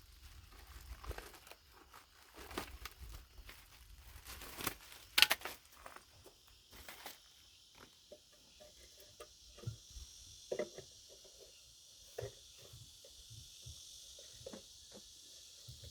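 Scattered light clicks and knocks of objects being handled, the loudest about five seconds in, with a faint steady hiss from about six seconds on.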